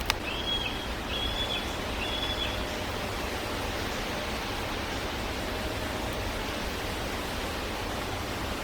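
Steady outdoor hiss with three short, high, whistled bird notes in the first three seconds.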